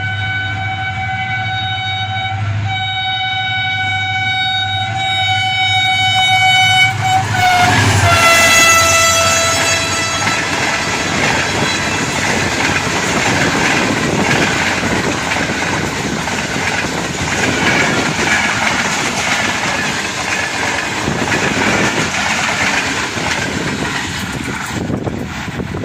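Pakistan Railways HGMU-30 diesel-electric locomotive sounding a long multi-tone horn as it approaches. About eight seconds in, the horn drops in pitch as the locomotive passes and stops soon after. The train then rumbles and clatters past over the rail joints.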